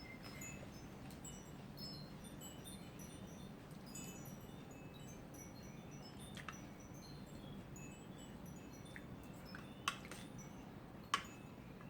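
Wind chimes tinkling in a strong wind, with scattered short high notes over a low steady rush of wind. A few sharp clicks come in the second half.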